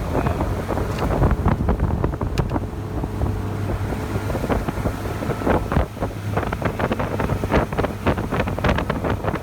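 Strong wind buffeting the microphone, with many rapid, irregular knocks and crackles and a steady low hum underneath.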